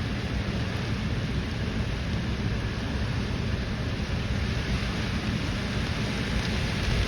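Steady heavy rain falling: an even hiss with a constant low rumble underneath.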